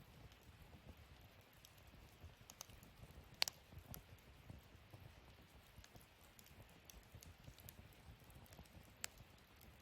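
Wood fire burning in a fire pit stand: faint, scattered crackling, with one sharp pop about three and a half seconds in and another near the end.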